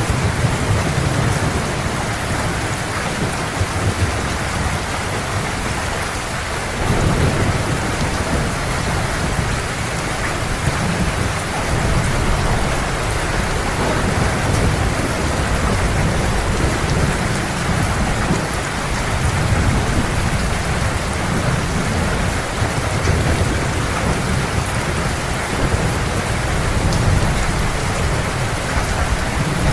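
Heavy rain falling in a steady hiss, with low rolling thunder rumbling underneath that swells and eases every few seconds.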